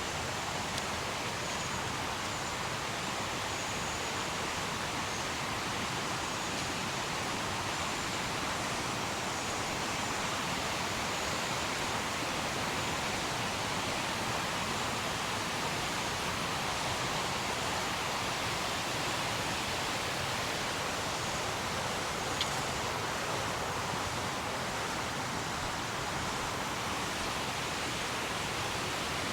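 Fast-flowing mountain river rushing steadily over rocks, an even, unbroken hiss of white water.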